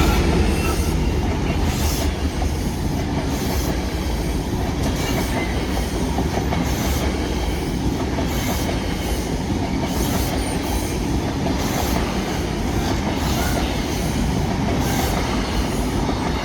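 The Britannic Explorer rail tour train rolling past at a level crossing: a steady rumble of coaches with wheels clicking over rail joints about once a second, loudest near the start.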